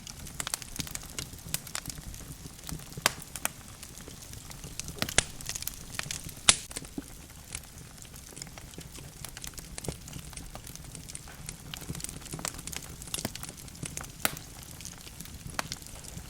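Wood fire of burning logs crackling, with irregular sharp pops and snaps over a low, steady rumble of flame; the loudest pop comes about six and a half seconds in.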